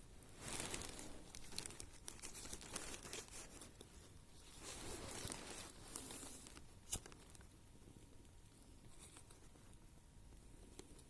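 Plastic bag being handled, crinkling and rustling in several bursts, with one sharp click about seven seconds in.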